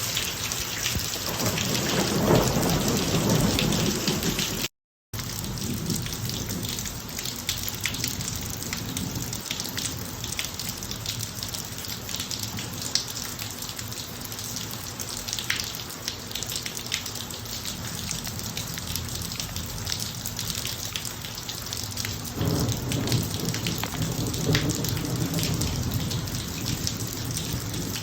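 Steady rain falling on a driveway, with thunder rumbling twice: once in the first few seconds and again about 22 seconds in. The sound cuts out completely for a moment just before five seconds in.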